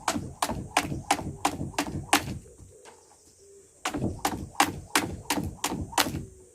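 Jump rope slapping the ground with each jump in a steady rhythm, about three a second. It pauses for about a second and a half near the middle, then starts again.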